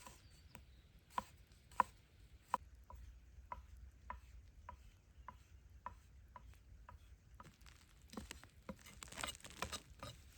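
Knife chopping on a cutting board in steady strokes about two a second, the first few the loudest, turning to quicker, busier knocks about eight seconds in.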